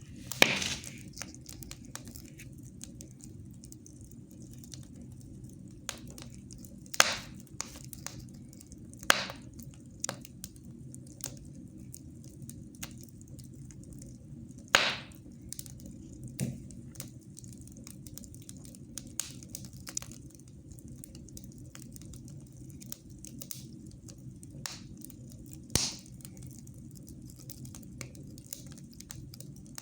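Wood fire burning in a fireplace: a steady low rumble with frequent crackles and sharp pops, five of them louder than the rest.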